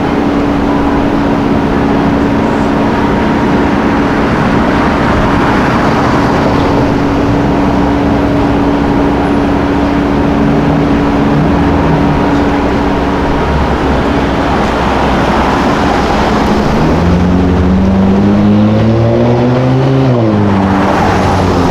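Car engine running with a steady low drone. Near the end its note climbs for about three seconds, then drops away quickly.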